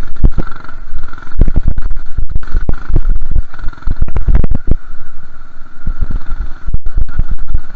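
Minibike's small engine running as it is ridden, under heavy, uneven low rumbling and buffeting on the microphone, with a steady high whine throughout.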